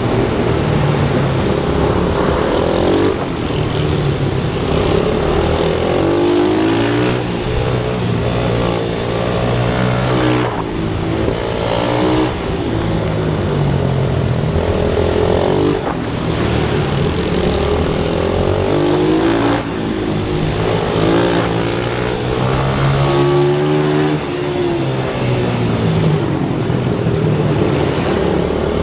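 Pit bike engine running hard on a track, rising in pitch through the revs and then briefly dropping off every few seconds as the throttle is closed or a gear is changed.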